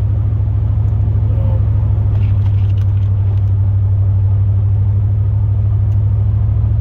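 Pickup truck engine and exhaust droning steadily inside the cab while driving, with a fast, even pulsing. The truck has exhaust manifold leaks; the driver says one on the passenger side still sounds like it is leaking.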